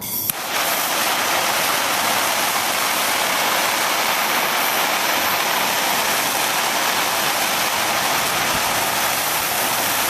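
Handheld gas torch burning with a loud, steady hiss, heating a large finishing nail until it glows red. The flame comes on suddenly just after the start.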